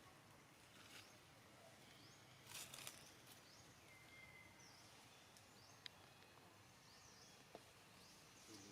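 Near silence: faint outdoor background with a couple of soft rustles, a brief high chirp and a few light clicks.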